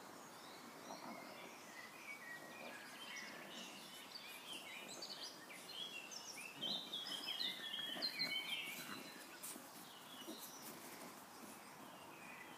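Birds chirping and singing, a run of quick high notes that is loudest around the middle.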